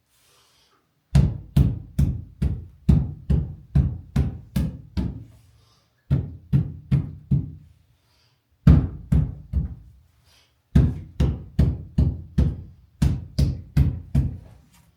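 A run of heavy, evenly spaced thumps, about three a second, starting about a second in. It comes in four runs broken by short pauses.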